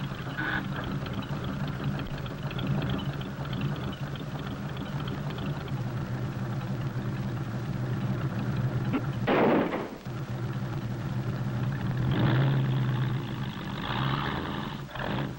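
Car engines running slowly with a steady low hum, a loud rasping burst about nine seconds in, and rougher, louder stretches near the end.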